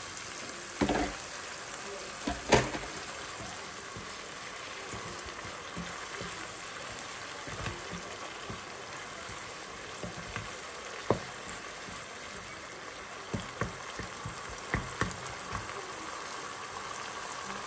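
Tomato and spice masala, with a little added water, sizzling steadily in oil in a cooking pan. A few short knocks sound over it, two louder ones in the first three seconds and several smaller ones later.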